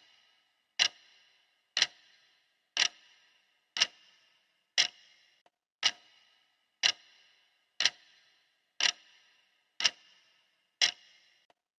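Clock ticking steadily, one sharp tick a second, each with a short ringing decay.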